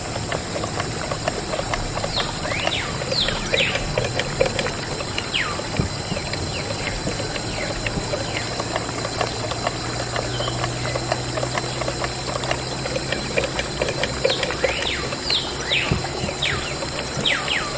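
Birds chirping: short, quick chirps that fall in pitch, coming in clusters early on and again near the end, over a steady pattering and clicking background.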